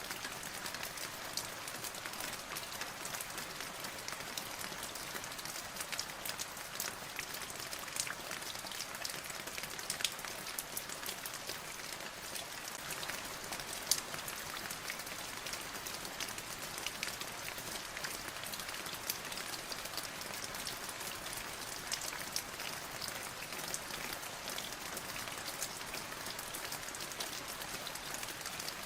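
Steady rain falling, a dense patter of individual drops hitting a surface, with a few louder drop ticks scattered through it.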